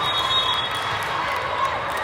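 Crowd of spectators talking, many voices overlapping in a steady hubbub.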